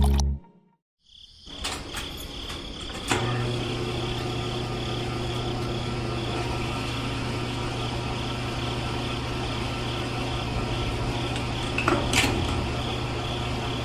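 A small electric motor running steadily with a whine and a low hum. The hum strengthens about three seconds in, and a few sharp clicks and knocks come through.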